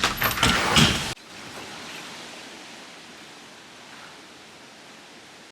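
Steady hiss of heavy rain and wind from Hurricane Irma, slowly fading a little. It cuts in about a second in, after a short spell of louder knocks and clatter.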